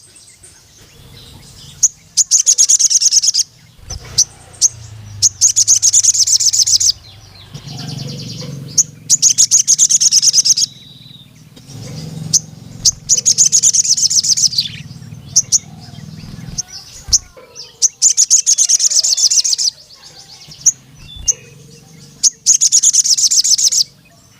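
Male sogon (a sunbird) singing: a string of high, rapid, buzzy trills about a second and a half each, repeated every couple of seconds with short sharp chips in between.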